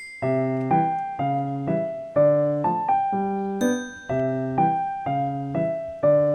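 Background piano music: a gentle melody of single notes and chords struck about twice a second.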